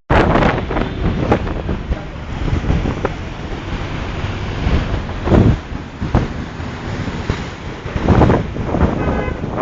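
Wind buffeting a phone's microphone over the wash of sea surf, with louder surges about halfway and again near the end.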